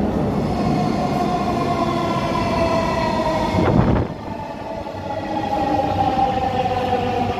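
Metro train running, its electric motor whine sliding slowly down in pitch over the running noise. Just before four seconds in there is a brief louder rush, then the noise drops and the whine starts again and keeps falling.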